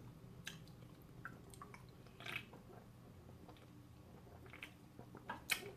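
Faint chewing and wet mouth sounds of a person eating, with scattered soft smacks and clicks.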